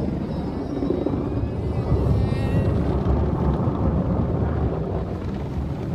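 Automatic car wash running over the car, heard from inside the cabin: a steady low rumble of machinery and water spray on the body.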